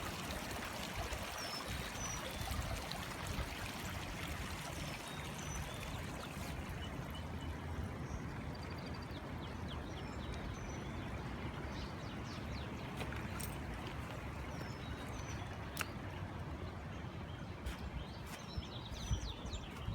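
Steady rush of flowing floodwater, with short high chirps scattered through it.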